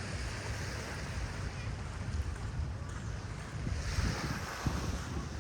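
Sea surf washing onto a sandy beach, with wind buffeting the microphone as a low rumble; a wave washes in louder about four seconds in.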